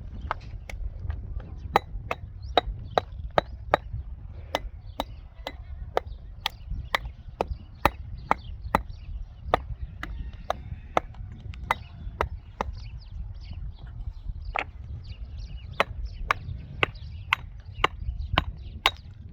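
A hand tool chopping, with sharp, regular blows at about two to three a second, over a steady low rumble.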